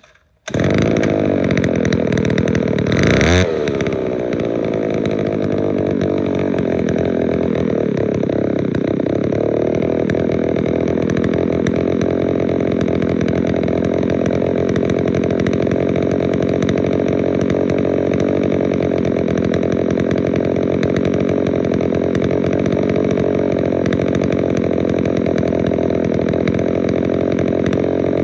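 Small two-stroke engine of a handheld garden tool, cold-started by pull cord on full choke and primer, catching about half a second in. It blips briefly about three seconds in, then runs steadily.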